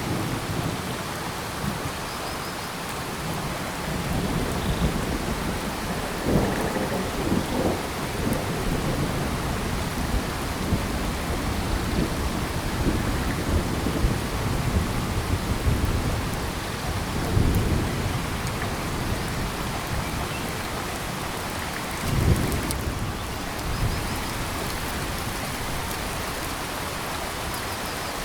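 Heavy rain falling steadily in a tropical forest, a dense even hiss. Low rumbling swells rise out of it several times, strongest about six, seven, seventeen and twenty-two seconds in.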